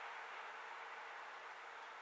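Faint noise of a train receding from the level crossing, a steady hiss-like rumble slowly fading away.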